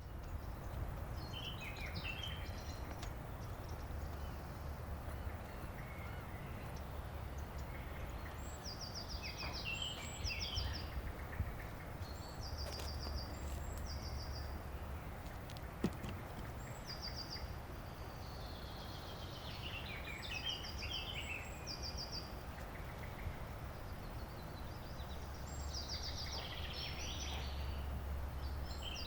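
Forest ambience: a songbird sings short, quick trilled phrases every few seconds over a steady low rumble. There is one sharp click about halfway through.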